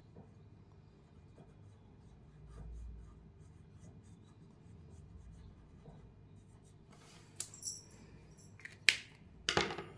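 Quiet room tone with faint scattered ticks, then a few short, sharp clicks and rustles in the last three seconds.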